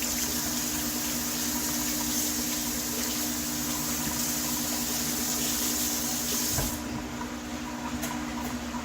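Running water from a tap, a steady rushing hiss over a low steady hum, shut off about seven seconds in after a low knock, leaving the hum.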